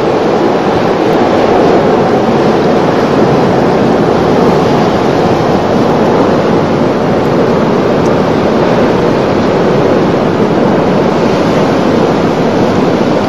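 Strong blizzard wind: a loud, steady rushing noise with no let-up.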